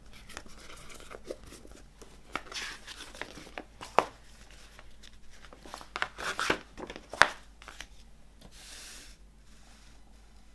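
Packaging being handled and unwrapped: paper or plastic rustling and crinkling, with sharp clicks or taps about four and seven seconds in and a brief sliding hiss near the end.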